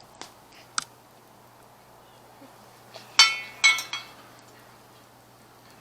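Metal pie iron being handled and its two halves fitted back together: a few light clicks, then two sharp, ringing metallic clinks about half a second apart.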